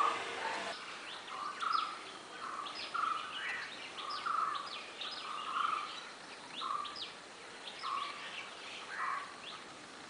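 Birds calling outdoors: one short call repeats about once a second, with quick high chirps in between, fading toward the end.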